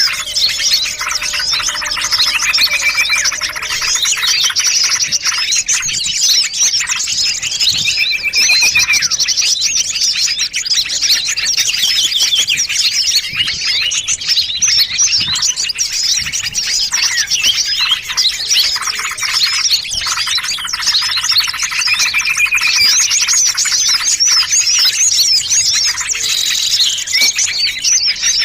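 Mixed bird-lure recording: many small songbirds calling at once in a dense, unbroken chorus of overlapping chirps and rapid trills.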